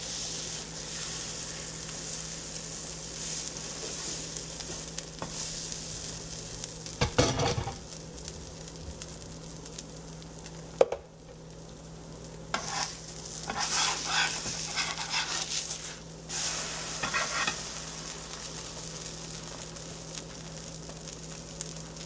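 Pancake batter frying in melted butter in a skillet, sizzling steadily. A few louder scrapes and a sharp knock come through partway through.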